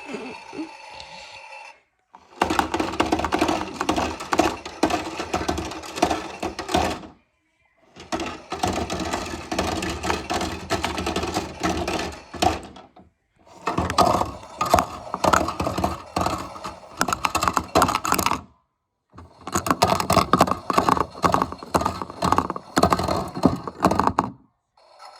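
Miele front-loading washing machine in its wash cycle: the drum tumbles the wet laundry with dense, irregular thuds and sloshing in four runs of about five seconds each. Each run is separated by a brief stop, as the drum pauses and reverses direction.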